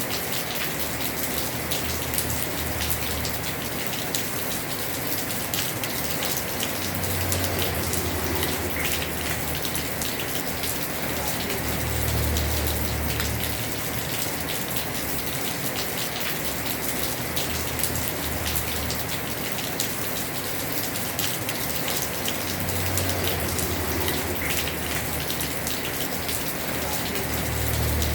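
Heavy rain on a house roof: a steady, dense hiss with many single drops ticking through it. A low rumble swells and fades every few seconds.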